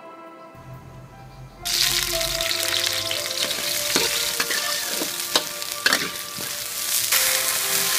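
Sliced onion sizzling in hot oil in a wok, the frying starting suddenly about a second and a half in, with the spatula scraping and knocking against the wok several times as it is stirred.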